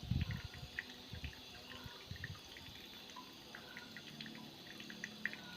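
Water trickling and dripping in a small homemade mini waterfall, with irregular plinks of falling drops. A few low thuds come in the first two seconds.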